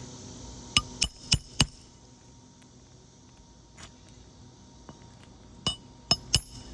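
Hammer blows ringing on metal: four quick strikes, a pause of about four seconds, then three more.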